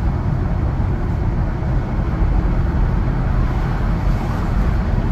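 Steady road and engine noise heard from inside a moving car's cabin, a low rumble of tyres and engine at highway speed.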